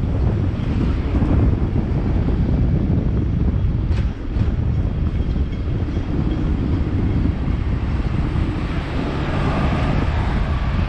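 Hong Kong double-decker tram running along its street rails, heard from aboard as a steady low rumble. A single sharp click about four seconds in, and the hiss grows louder near the end.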